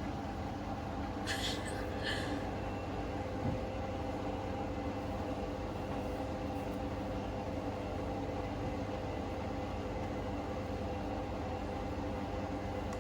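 Hoover Link washing machine in a 1400 rpm spin, its motor and drum running with a steady whine and hum. The load is quite unbalanced. There is a single thump about three and a half seconds in, and two brief hissing noises just before it.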